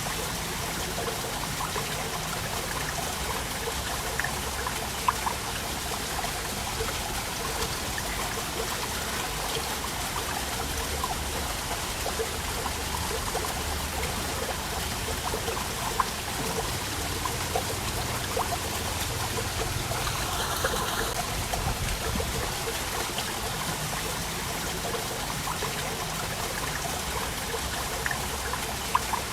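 Waterfall water falling and splashing in a steady rush, with small drips and splashes scattered through it.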